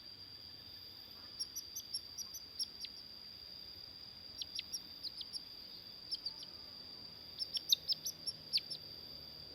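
Canary chirping in three short runs of quick, clipped high notes, some sweeping down in pitch, over a steady high-pitched whine.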